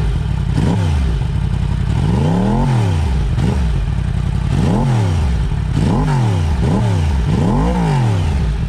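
Yamaha YZF-R1 inline-four engine revved about seven times from idle, each rev climbing in pitch and dropping straight back to a steady idle, the biggest ones about two and a half seconds in and near the end.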